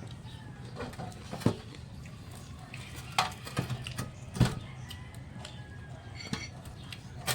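Eating utensils clinking and knocking against a plate in a few separate sharp strikes, over a steady low hum.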